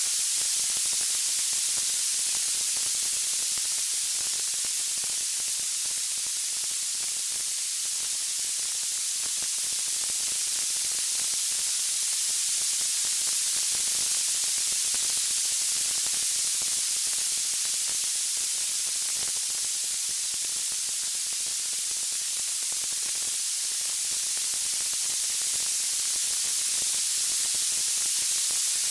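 Steady white-noise hiss, strongest in the high treble, with no music or distinct crackles standing out.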